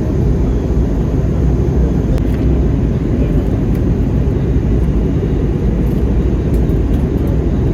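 Steady low rumble of cabin noise in an Airbus A320neo in flight during its descent: air rushing past the fuselage and the engines running.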